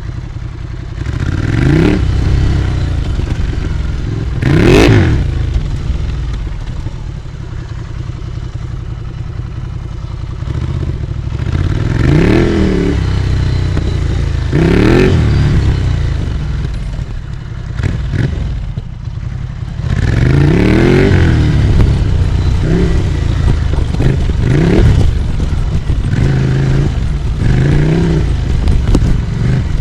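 Ducati Scrambler Icon's air-cooled 803 cc L-twin running through an HP Corse GP07 exhaust with the baffle in, pulling up through the revs in about seven rising surges and easing off between them.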